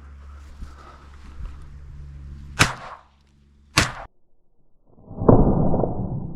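Two shotgun shots fired in quick succession, about a second apart: a double at pigeons with a Zoli shotgun. A loud rushing noise on the microphone swells up about a second later and slowly fades.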